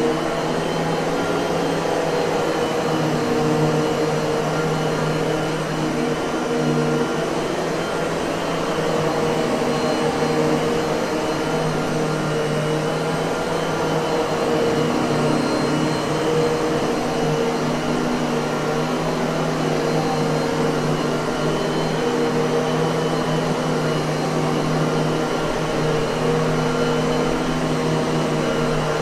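Miele vacuum cleaner running steadily: an even motor hum over rushing airflow, with no change in speed.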